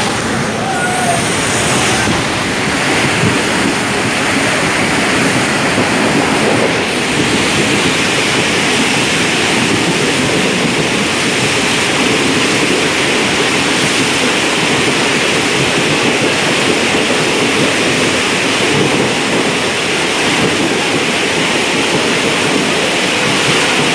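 Heavy rain pouring down steadily, an even rushing noise with no breaks.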